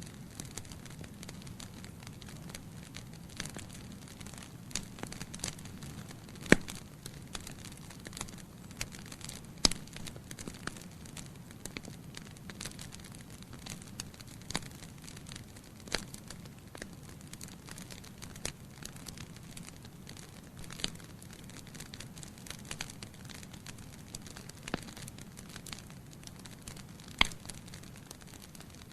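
Wood fire burning in a fireplace: a steady low rumble of flames with irregular crackles and pops from the burning logs, a few sharp loud pops standing out.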